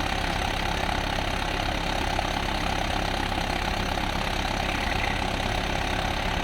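Tractor diesel engine running steadily with a fast, even low chugging.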